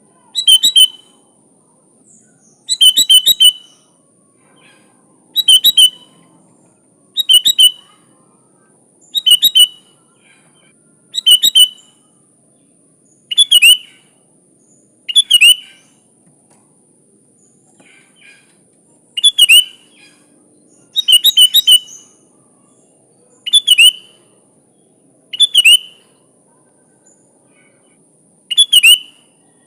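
Sooty-headed bulbul (kutilang) singing: short, loud chirping phrases repeated about every two seconds, with a pause of a few seconds midway.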